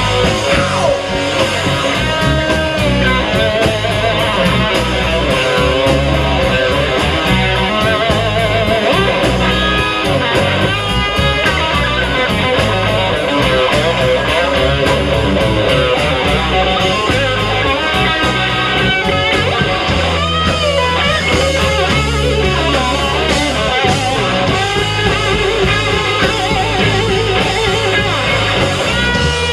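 A rock band playing live: loud distorted electric guitars over bass and drums, in an instrumental stretch without singing.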